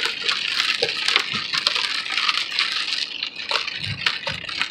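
Hail pelting a car's windshield and body from inside the cabin: a dense, irregular patter of sharp hard clicks and knocks over a hiss of rain, heavy enough that the driver fears it will break the windshield.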